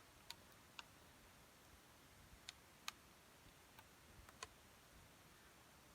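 Near silence with a handful of short, sharp clicks at irregular intervals.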